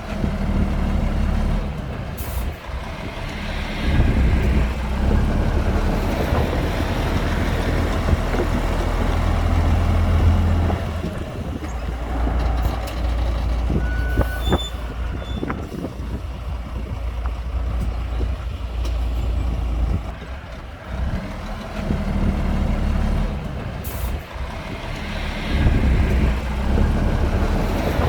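Heavy diesel earthmoving machinery (dump truck and bulldozer) working, the engines droning low and rising and falling with load. A short hiss comes about two seconds in and again near the end, and a few brief high tones sound about halfway through.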